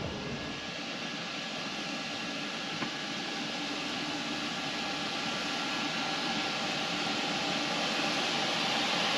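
Boat motor running steadily under a rush of wind and water, slowly growing louder.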